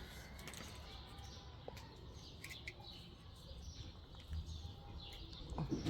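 Faint chirping of small birds, short high calls scattered through, over low steady background noise.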